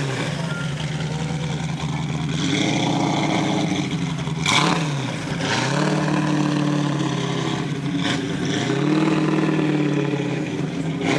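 A car engine revved three times, each rev rising, holding for a moment and falling back toward idle.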